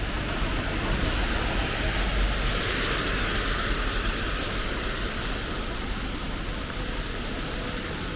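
Steady rain hiss over a low rumble, with a louder wash of hiss that swells and fades about two to five seconds in.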